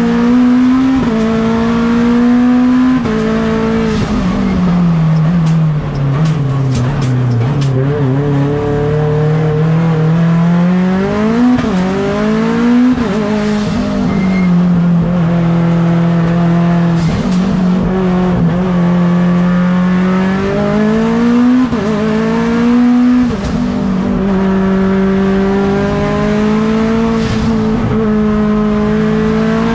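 Turbocharged 4B11 four-cylinder engine of a Mitsubishi Lancer Evolution X race car heard onboard under hard acceleration. The revs climb and then drop sharply at several quick gear changes. About five seconds in, the revs fall low as the car slows, with a string of sharp cracks, then climb again through the gears.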